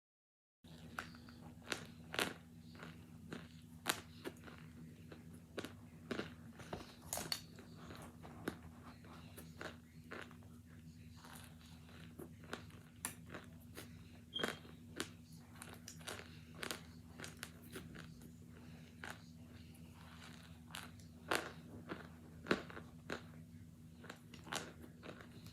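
Close-up crunching and chewing of hard frozen cornstarch chunks mixed with baby powder: sharp, irregular crunches every second or so, with a low steady hum underneath.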